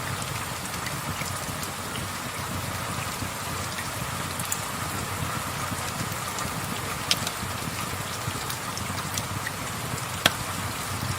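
Steady soft rain falling, with a few sharp crackles from a wood fire; the loudest comes near the end.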